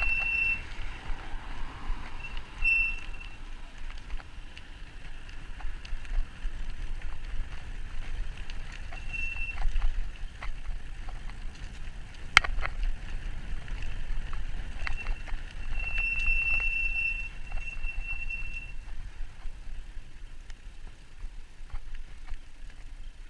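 E-bike in motion: a steady low rumble of tyres and wind on the microphone, scattered clicks and rattles with one sharp knock about halfway, and a high, steady-pitched squeal that comes and goes several times, longest about two thirds of the way through.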